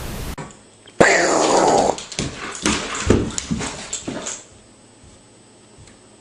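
A dog vocalizing: a long call sliding down in pitch about a second in, then a run of shorter calls that stops a little past the four-second mark. A brief burst of hiss opens the stretch.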